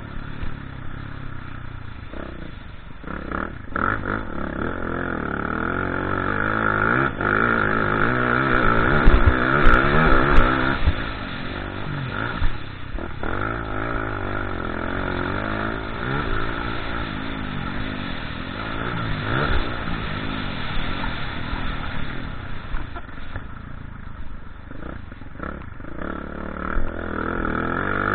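Motocross motorcycle engine revving up and down again and again as it is ridden, its pitch rising and falling, with a few knocks about a third of the way through.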